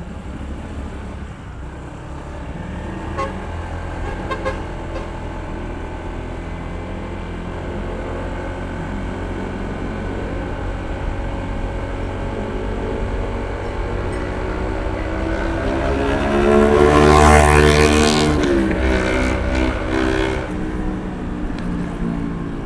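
Honda ADV160 scooter's single-cylinder engine running under way, its pitch slowly climbing as speed builds. From about sixteen seconds in, a louder vehicle swells past, its engine note dropping in pitch as it goes by.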